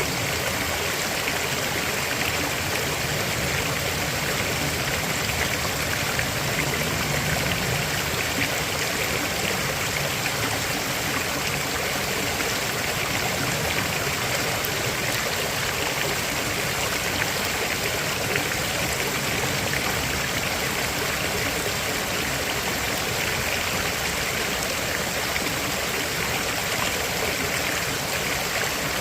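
A river flowing steadily over rocks, an even rush of water with small trickling sounds.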